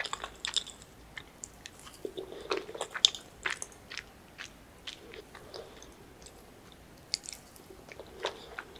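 Close-miked chewing of a mouthful of spicy chicken tteokbokki: soft, wet mouth clicks and smacks at irregular moments, thinning out for a second or two past the middle.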